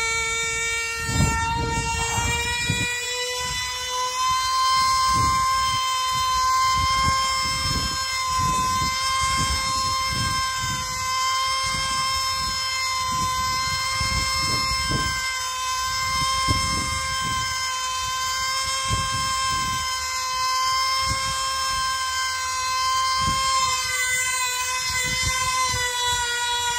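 F2D control-line combat model's 2.5 cc two-stroke racing engine (a tuned YMS-FORA) running flat out in flight with a steady, high-pitched scream. Its pitch climbs a little in the first few seconds and then holds nearly constant. Wind buffets the microphone with low rumbles throughout.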